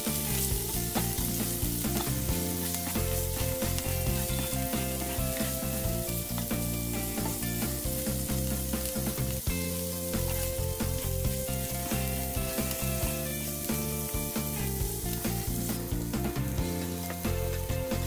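Shrimp sizzling in hot oil in a nonstick frying pan, stirred and turned with a silicone spatula that scrapes and taps against the pan. Soft background music plays underneath.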